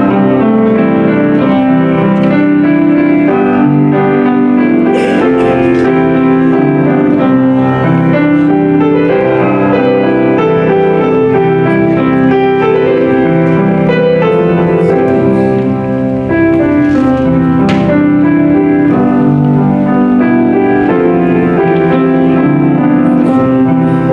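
A keyboard instrument playing a slow piece in full, held chords, with the notes shifting steadily.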